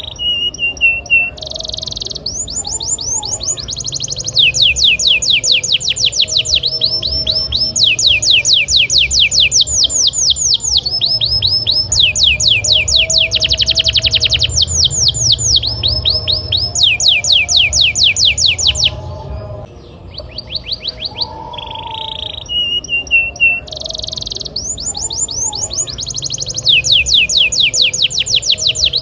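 Domestic canary singing a continuous song of fast rolling trills: rapid runs of repeated notes in phrases of a second or two, each phrase at a different pitch, with a short break about two-thirds of the way through.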